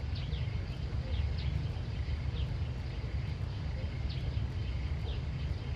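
Outdoor country ambience: short, high, downward-sliding bird chirps repeating irregularly over a steady low rumble.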